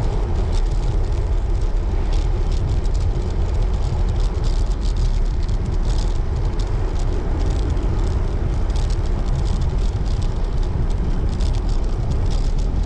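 Wind buffeting the microphone of a road bike rider while riding: a steady low rumble, with faint scattered clicks above it.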